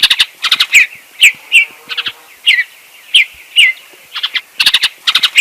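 Bluebird calling: a series of short, falling chirps, about two a second, broken up by quick clusters of rapid notes.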